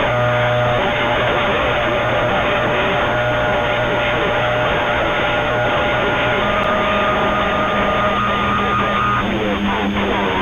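CB radio receiver on a crowded channel: steady hiss and static with several whistling heterodyne tones at different pitches from overlapping carriers, the higher ones stopping near the end.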